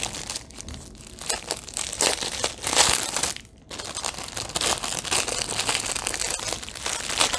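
Plastic packaging of a diamond painting kit crinkling and rustling as it is handled and opened, with a brief pause about three and a half seconds in.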